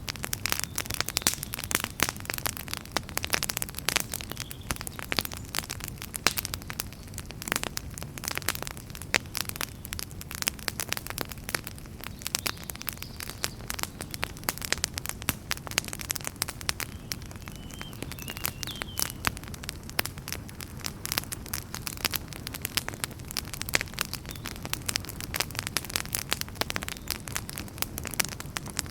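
Wood fire burning in a fireplace, crackling with dense, irregular sharp snaps and pops over a steady low rumble of the flames.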